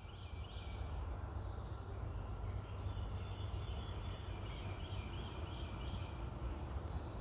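A songbird singing series of short, quickly repeated chirping phrases, over a steady low rumble.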